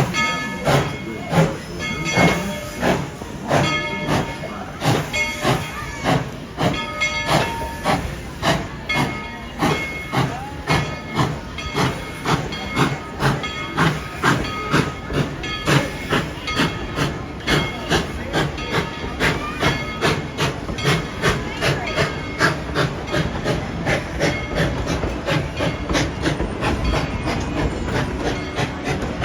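Tweetsie Railroad's narrow-gauge 2-8-2 steam locomotive #190 working, its exhaust chuffing in a steady beat that quickens from about two to about three beats a second as it picks up speed, with steam hiss. A repeating ringing tone sounds over the chuffs.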